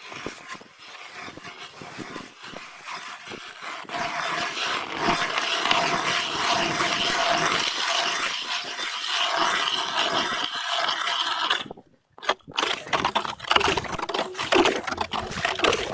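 Ice auger boring into river ice: a steady grinding scrape that builds about four seconds in and cuts off suddenly near twelve seconds. It is followed by irregular knocks and scrapes of ice.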